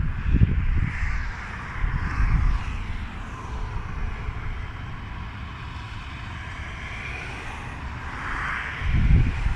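Thunderstorm wind rushing steadily, with gusts hitting the microphone in low thumps near the start, about two seconds in and again about nine seconds in.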